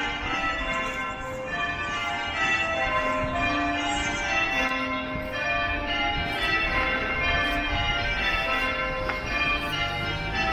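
Bells ringing continuously, many overlapping ringing tones striking in quick succession, like church bells being rung.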